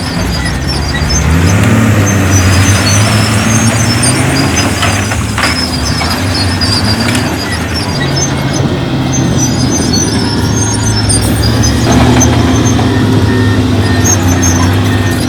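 Heavy diesel construction machinery working under load. The engine's pitch rises about a second in, then holds steady with a brief dip partway through. Intermittent high squeaking runs over it.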